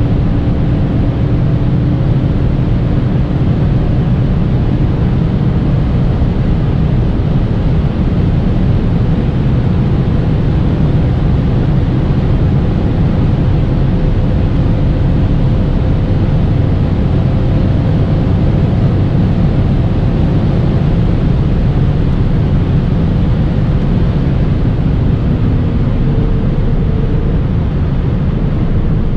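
BMW E39 540i's V8 engine droning at a steady speed under heavy road and wind noise, its pitch holding level with no gear changes or revving.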